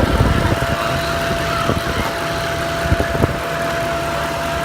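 Mercedes-AMG M156 6.2-litre V8 idling with a steady high whine that holds one pitch and does not change with the revs. The whine comes on after the car has been pushed hard, and the owner suspects something pressure-related, a vacuum forming.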